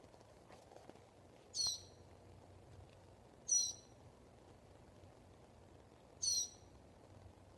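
A bird calling the same short, high, downward-sweeping note three times, roughly every two to two and a half seconds, in a steady repetitive series.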